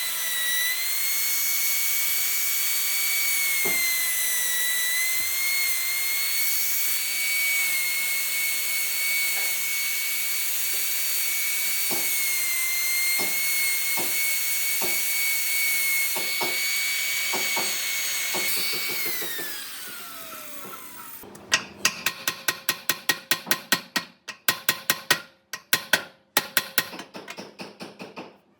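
Electric power tool motor running with a steady high whine and a few light knocks, then switched off and spinning down, its pitch falling over about two seconds. A quick run of sharp clicks and knocks follows near the end.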